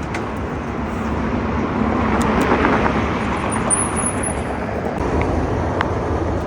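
Road traffic: a car passing, its noise swelling to a peak about two to three seconds in over steady street noise.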